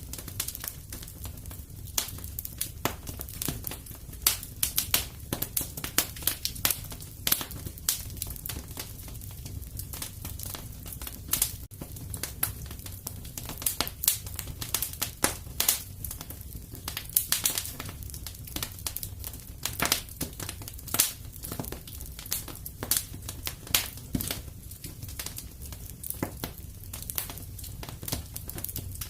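Wood fire in a fireplace crackling and popping: irregular sharp snaps, several a second, over a low steady rumble.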